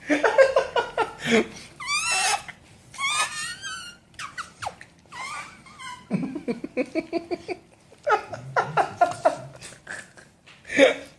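Two high squeaky calls with a quickly wavering, warbling pitch, about two and three seconds in, amid repeated bursts of laughter.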